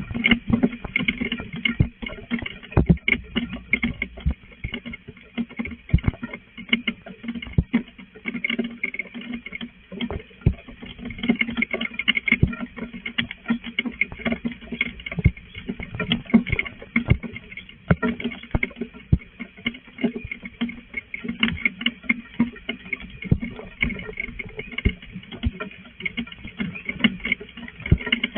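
Rain falling during a storm, with drops tapping and pattering irregularly, some hits sharp and loud, over a steady hiss.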